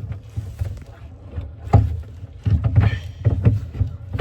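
Kayak paddling: irregular knocks and splashes from paddles and plastic kayak hulls bumping together, over a low uneven rumble.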